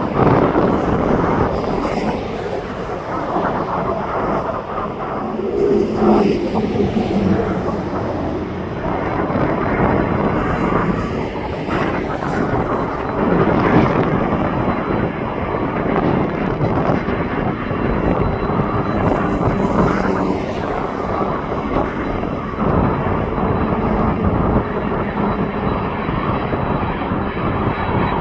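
Airliner engines running with a loud, steady rumble, joined by a thin high whine about halfway through.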